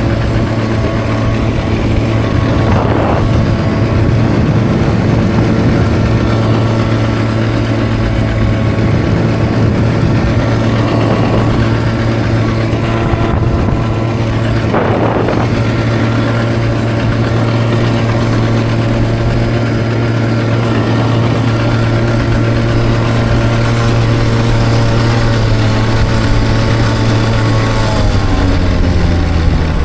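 Enduro dirt bike engine running at a steady, unchanging note, with its pitch dropping near the end as the engine slows.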